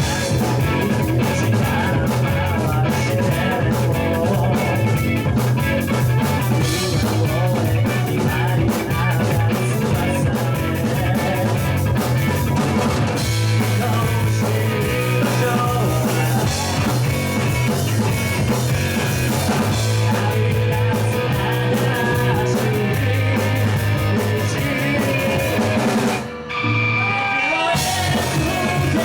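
Rock band playing loud, with drum kit, guitar and singing. The music drops out briefly a little after 26 seconds in, then comes back in.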